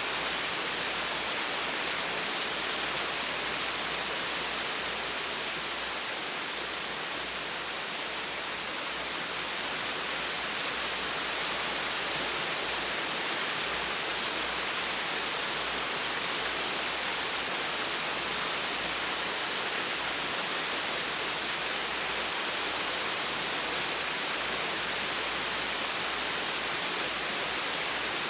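Small waterfall splashing steadily, an even rush of falling water with no other sound.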